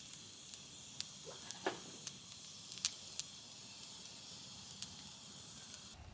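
Wood campfire hissing steadily, with a few sharp, widely spaced pops.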